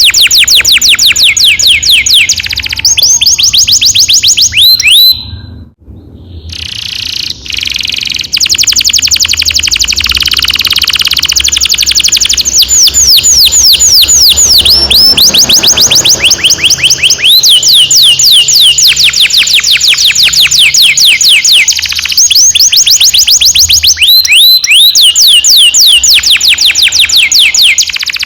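Domestic canary singing long rolls: runs of rapid, evenly repeated high whistled notes, each falling in pitch, with a brief break about six seconds in. The song is loud and close.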